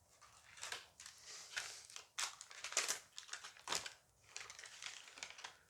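Dice Masters foil booster pack crinkling and crackling in irregular strokes as it is handled and opened.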